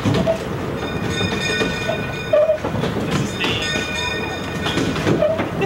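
Narrow-gauge passenger coach rolling along the track, with a steady rumble and clicks of the wheels over the rails. A high wheel squeal comes and goes several times as the train takes a curve.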